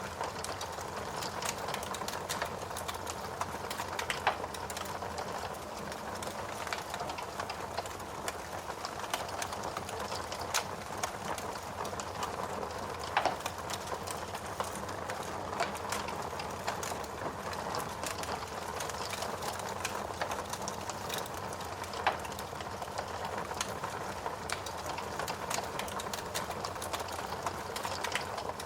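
Logs burning in a fireplace: a steady hiss of flame with continual small crackles and a few louder pops.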